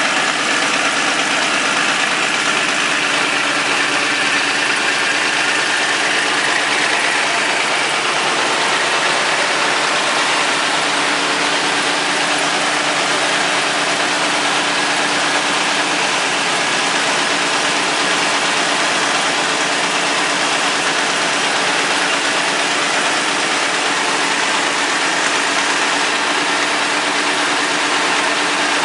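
Vintage Caterpillar D13000 diesel engine running steadily at an even speed, a continuous mechanical drone with a few steady tones in it.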